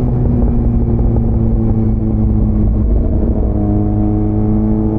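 Motorcycle engine running at a steady pace while riding, holding an even pitch, over a heavy low rumble.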